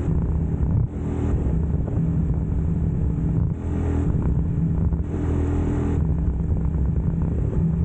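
UM Scrambler X motorcycle engine running at a fairly steady speed while riding, its pitch shifting only slightly. A rushing noise swells over it a few times.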